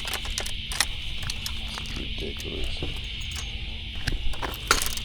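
Insects keep up a steady high-pitched chirring drone, with scattered sharp clicks and taps over it.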